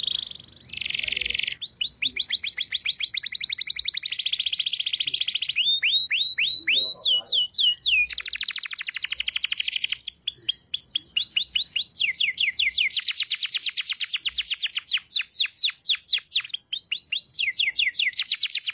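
A songbird singing rapid, high trills: long runs of quickly repeated sweeping notes, about ten a second, that change pattern every second or two with scarcely a pause.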